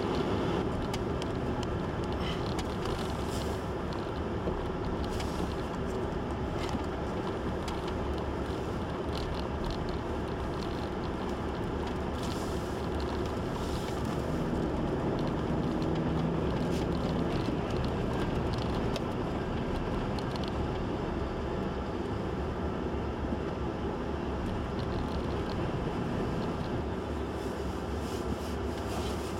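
Steady blizzard wind noise mixed with a vehicle engine running, with a faint pitched hum rising out of it about halfway through.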